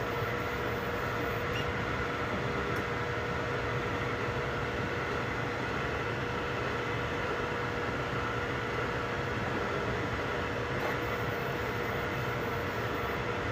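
3D printers running: a steady mechanical hum of fans and motors with a few steady whining tones.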